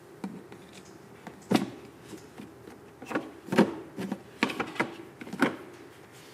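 Small plastic toy kitchen pieces being handled, giving a run of sharp clicks and knocks, several in quick succession near the end.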